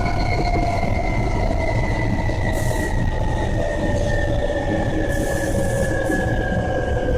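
Hankyu Kyoto Line electric train running, heard from inside the car: a steady rumble of wheels on rail with a whine that falls slowly in pitch as the train slows. Two short hisses come about two and a half and five seconds in.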